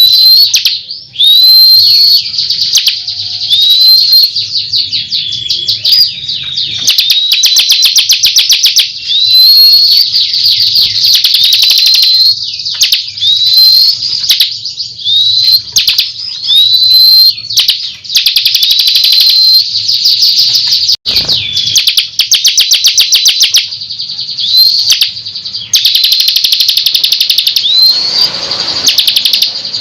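Bar-winged prinia (ciblek) singing loudly and without pause, a high-pitched song of short rising whistles about every two seconds alternating with fast rattling trills.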